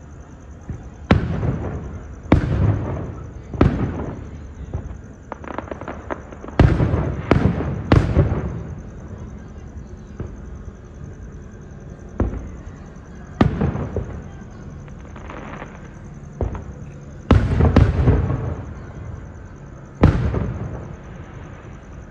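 Fireworks bursting overhead: about a dozen loud booms, each with an echoing tail, at irregular intervals, several in quick runs of three or four.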